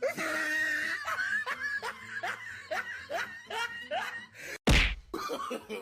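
A person laughing hard in a quick run of short "ha" syllables, with a loud sudden burst of noise about three quarters of the way through.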